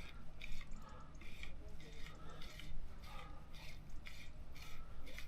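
Fly line being retrieved by hand in short, even pulls (a slow strumming retrieve), giving a soft rasp about twice a second as the line runs through the fingers and rod rings. A low steady rumble lies underneath.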